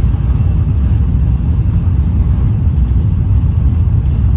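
Shinkansen bullet train running at speed, heard inside the passenger cabin: a steady low rumble of running noise that stays even throughout.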